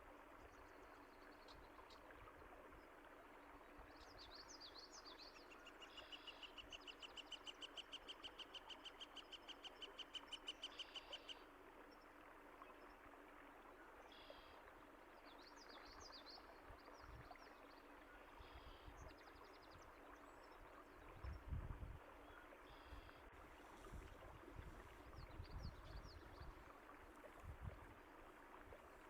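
Faint birdsong over a steady rush of flowing water: scattered chirps, and one bird giving a fast trill of rapidly repeated notes for about five seconds, starting some six seconds in. A few short low rumbles come in the second half.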